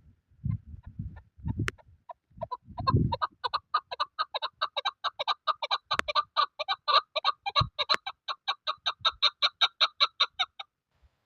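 Chukar partridge giving its rapid chuk-chuk-chuk call: a long run of short clucking notes, about six a second, building in loudness and then stopping abruptly near the end. Low gusts of wind buffet the microphone in the first few seconds.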